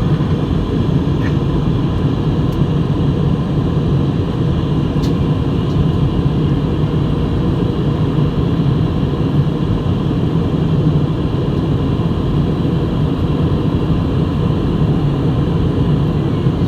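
Steady low drone of an airliner cabin in flight, engine and airflow noise holding an even level throughout.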